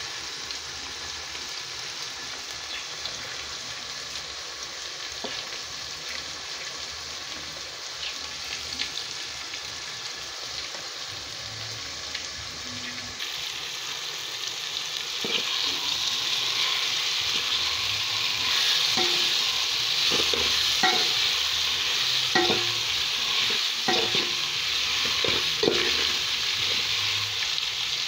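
Small fish with tomatoes and onions sizzling in an aluminium pot. The frying hiss grows louder about halfway through, and a metal spoon then stirs, knocking and scraping against the pot.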